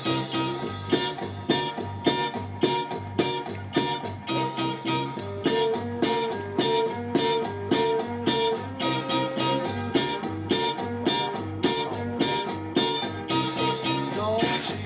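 Rock band music: guitar over bass and drums with a steady, even beat. A thin steady high tone runs underneath.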